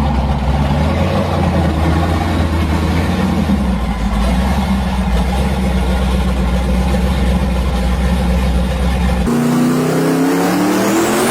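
Twin-turbo Pontiac Firebird Trans Am engine running steadily at low revs, its sound heavy in the bass. About nine seconds in, the sound switches abruptly to the car accelerating hard, the engine note rising steadily in pitch.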